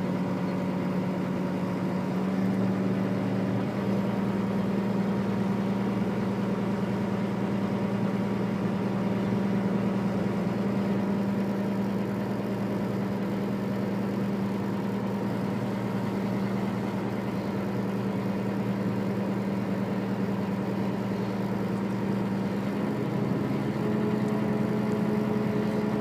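Engine running steadily, with its pitch stepping up slightly a few seconds in and again near the end as the revs rise a little.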